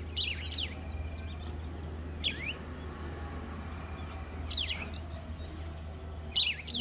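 Small birds chirping: short, quick chirps that sweep in pitch, coming in little clusters every second or two, over a steady low hum.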